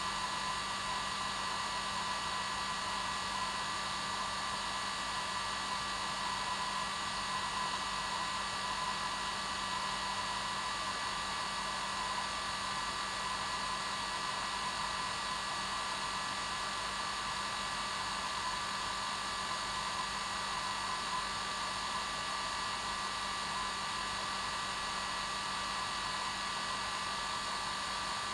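Hair dryer running steadily: an even airy hiss with a constant motor whine.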